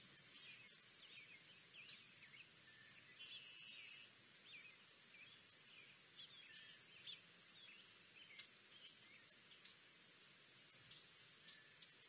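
Faint songbirds chirping, a scatter of many short calls with a brief held whistle a little over three seconds in.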